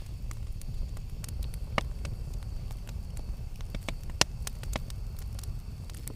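Campfire burning with a low steady rumble and scattered sharp crackles and pops, two louder pops about two and four seconds in.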